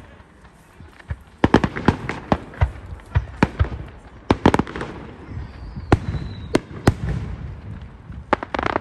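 Fireworks display: aerial shells bursting with sharp bangs. A quick run of bangs comes about a second and a half in, then single bangs spaced about a second apart, then another close cluster near the end.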